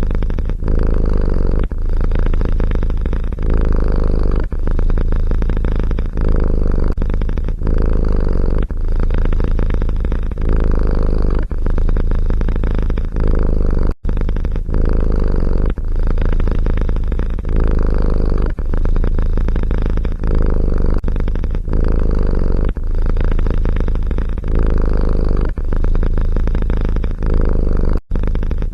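Domestic cat purring loudly close to the microphone, pulsing in steady breath cycles of about one a second. The sound drops out briefly twice, about halfway and near the end.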